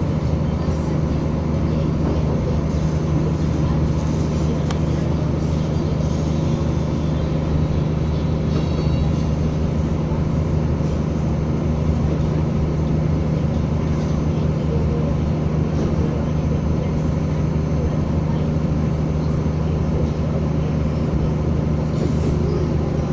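Materfer CM-2503 diesel railcar under way, its engine running with a steady low drone and the running noise of the train.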